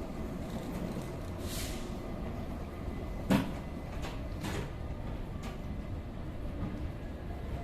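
Train's steady low rumble, with a single sharp clunk a little under halfway through and a few short hisses.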